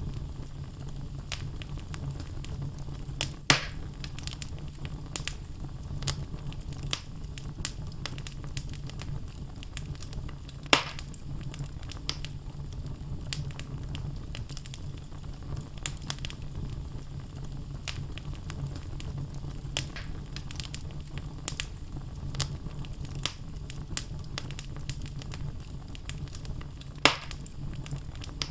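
Wood logs burning in a fireplace, crackling with many small snaps over a steady low rumble of the flames, and three louder pops spread through.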